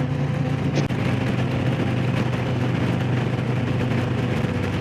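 Harley-Davidson Low Rider S Milwaukee-Eight V-twin running at a steady cruising speed, with road and wind noise; a single short click just under a second in.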